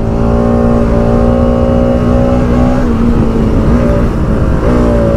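Bajaj Pulsar NS200 single-cylinder engine running hard at high revs under full throttle, its note holding steady. The note dips a little about three seconds in and climbs again near the end.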